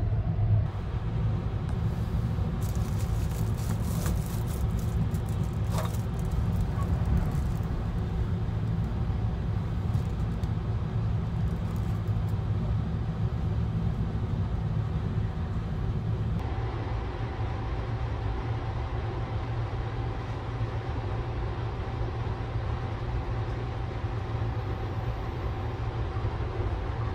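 Sunrise Izumo 285-series sleeper train running, heard inside a compartment as a steady low rumble. Crackly rustling between about three and eight seconds in, and a faint steady whine joins a little past halfway.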